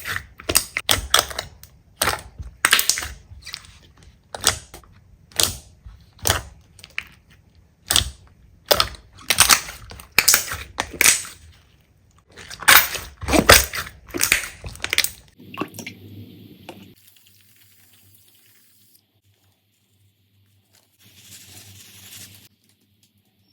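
Slime being pressed and squished by hand, crackling and popping in a quick series of sharp bursts, about one or two a second. After about fifteen seconds it dies away to near silence with a faint hiss near the end.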